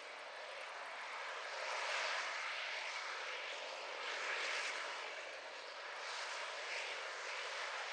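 Canadair CL-415 water bomber's twin Pratt & Whitney PW123AF turboprops heard at a distance, a steady engine and propeller rush that swells louder twice.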